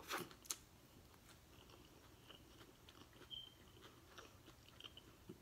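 Faint chewing of a taco, with two short crunchy bites in the first half second and then soft, scattered mouth sounds.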